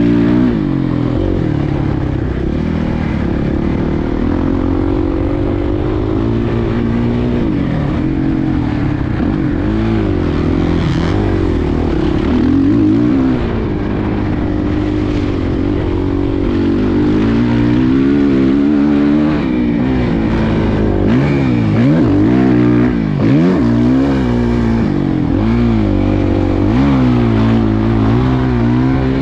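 Suzuki motocross bike engine revving up and down again and again through the laps, with a few sharp drops in revs and pick-ups about two thirds of the way through.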